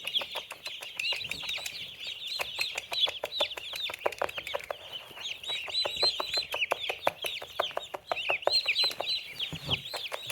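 Day-old chicks and turkey poults peeping continuously, a dense chorus of high peeps. Through it run quick series of light, sharp taps.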